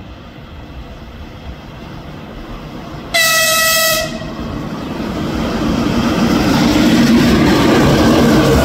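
An EP2K electric locomotive sounds one short horn blast, a little under a second long, about three seconds in. Then the rumble of the locomotive and its double-deck coaches on the rails grows steadily louder as the train approaches and runs past close by near the end.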